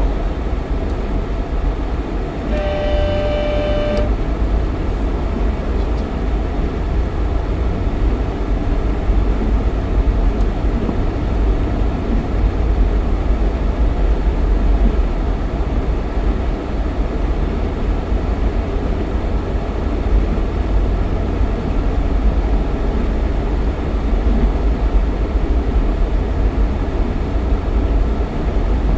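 Jeep XJ driving on a snowy highway: a steady low road and engine rumble throughout. A short, steady horn tone sounds for about a second and a half, about three seconds in.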